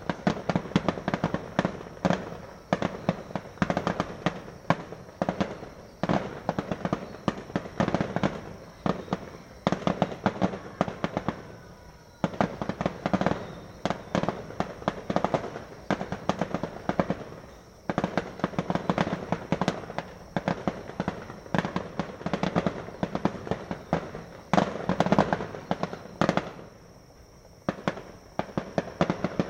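Fireworks going off in rapid, continuous volleys of sharp bangs and crackles, easing briefly about twelve, eighteen and twenty-seven seconds in.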